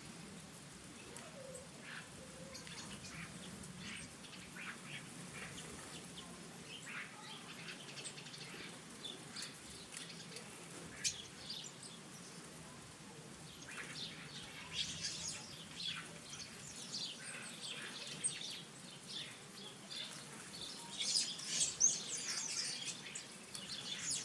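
Small garden birds chirping and twittering in a busy chorus of short, high calls, growing busier about halfway through and loudest near the end.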